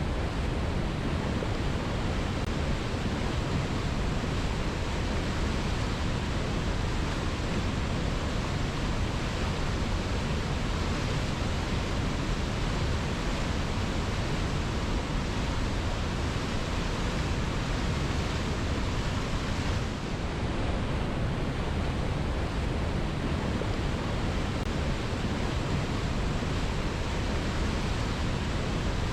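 Waterfall pouring over rocks: a steady, even rush of falling water, with a brief slight dip in level about twenty seconds in.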